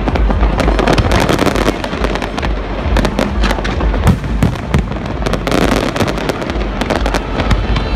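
Fireworks display: a dense, unbroken barrage of aerial shell bangs and crackling, the reports following one another several times a second over a low rumble.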